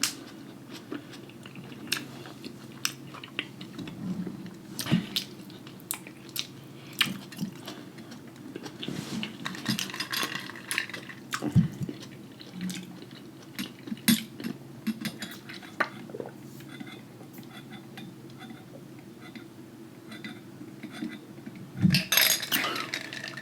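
Scattered clicks, taps and scrapes of a cooked lobster shell being picked clean of meat, with a few wet sounds from the buttery food.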